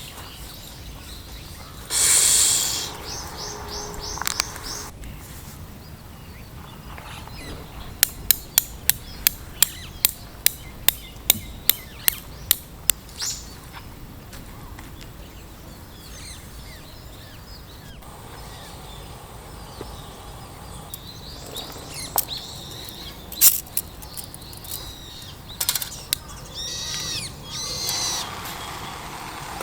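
Outdoor ambience with birds calling, broken by a quick run of about a dozen sharp knocks at about two a second partway through.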